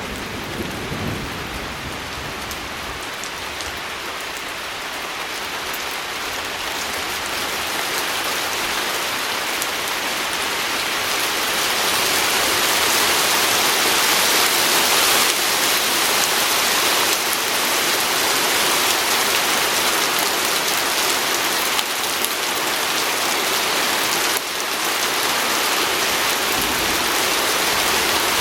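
Steady heavy rain pattering on a window pane, swelling gradually louder over the first ten seconds or so. A low rumble fades out in the first second or two.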